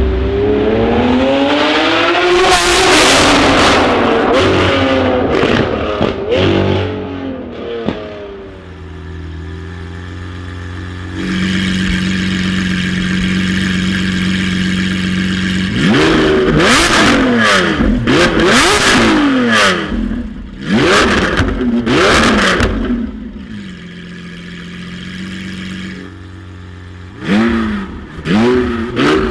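Lamborghini V12 engine revving: long sweeps up and down in pitch, then a steady raised idle for several seconds, followed by a run of quick throttle blips, with a few more blips near the end.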